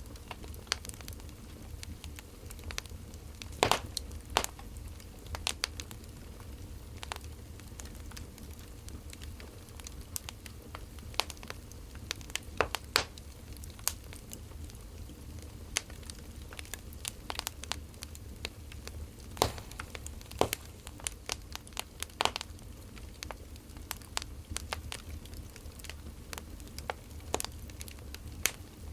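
Wood fire crackling, with irregular sharp pops over a low steady hum.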